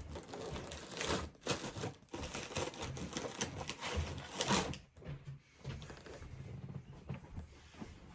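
Irregular rustling and light clicking of things being handled, such as snack wrappers and a cardboard box being gone through, louder for about the first five seconds and then faint.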